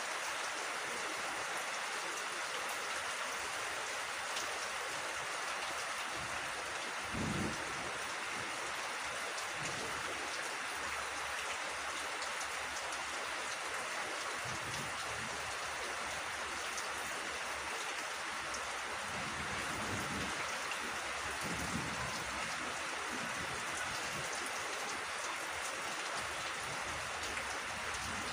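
Steady rainfall, an even hiss with no let-up. There is a brief low thump about seven seconds in.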